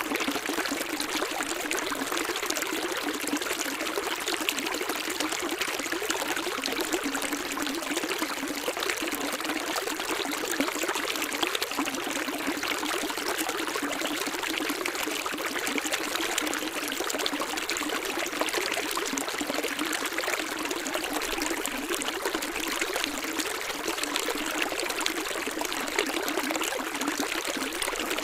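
Running water of a stream, flowing steadily with a constant splashing rush that does not change.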